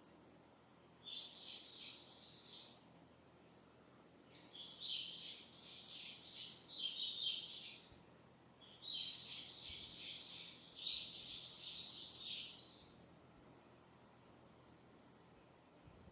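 A songbird singing three phrases of quickly repeated high notes, each lasting a few seconds, with short single call notes between them.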